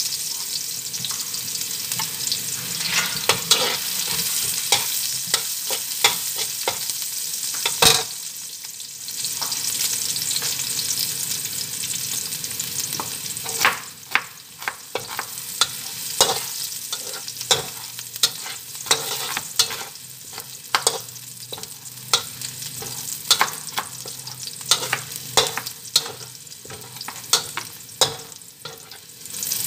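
Minced garlic sizzling in hot oil in a wok, stirred with a metal utensil that scrapes and clacks against the pan many times. The sizzle is louder for the first dozen seconds, then softer while the utensil strikes come more often.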